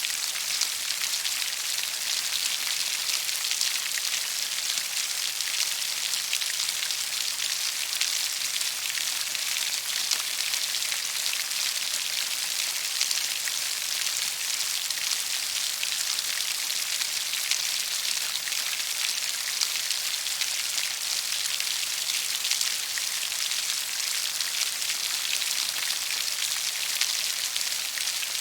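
Steady rain falling on leaves: a dense, even hiss of countless small drops pattering.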